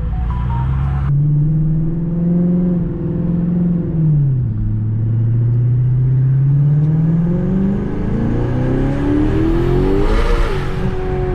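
Turbocharged Audi S6 4.0 V8, converted to a single large turbo, accelerating hard under boost. The engine note climbs, drops at an upshift about four seconds in, then climbs for a long second gear before dropping again at another shift near the end, where a short hiss comes in.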